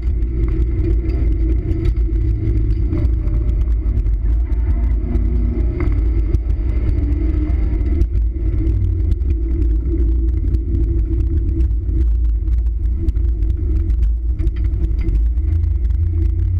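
Mazda Miata's 1.6-litre four-cylinder engine running as the car is driven hard through an autocross course, heard from the car with heavy low-pitched road and wind noise. The sound is steady throughout.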